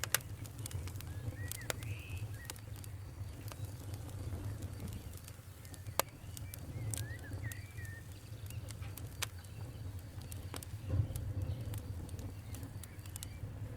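Wood fire in a fireplace crackling: irregular sharp pops and snaps over a steady low rumble of the flames, with two louder pops, one right at the start and one about six seconds in. A few faint, short high squeaks come in here and there.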